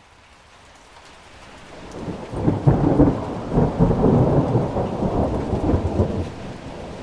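Thunderstorm: rain hiss swelling up from faint, then a long rolling peal of thunder that builds about two seconds in, rumbles for some four seconds and eases off near the end under the steady rain.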